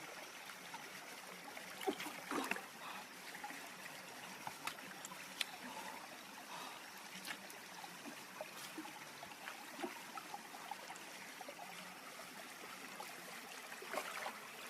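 River water trickling steadily, with scattered small clicks and a couple of brief louder sounds about two seconds in.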